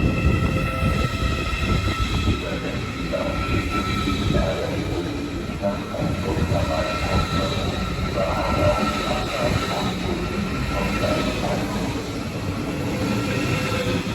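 Train moving through a station: a continuous low rumble of wheels on rails with steady high-pitched whining tones over it.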